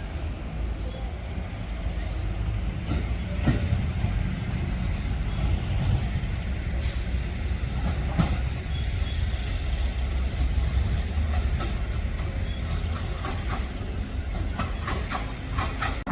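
A train running along the track with a steady low rumble, its wheels clacking over rail joints now and then and more often near the end.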